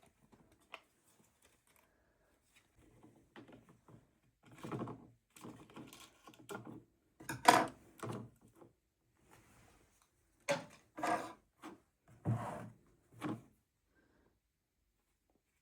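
Objects being handled and set down: a series of irregular knocks and thuds, the loudest about halfway through, with a quick cluster of several more a few seconds later.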